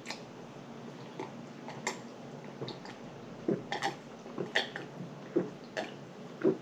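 Close-miked chewing and wet lip smacking: a dozen or so short, irregular smacks and clicks from a mouth eating.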